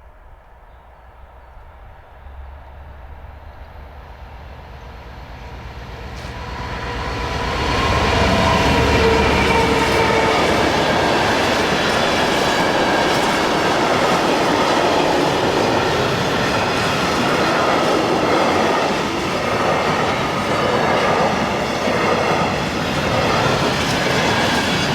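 A train approaches and grows steadily louder over the first eight seconds, then passes close by, its wheels clattering continuously over the rails.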